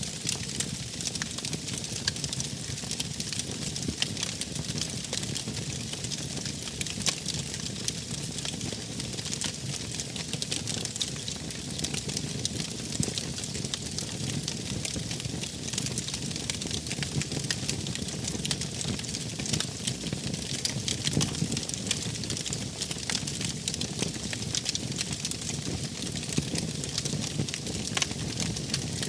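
Wood fire burning: a steady hiss and low rumble with frequent small crackles and pops.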